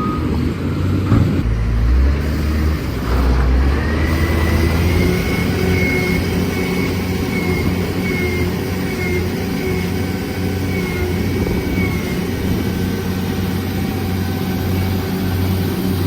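Heavy haul truck's engine running under load, with a heavy low rumble early on and a whine that rises about four seconds in, then holds steady as it pulls.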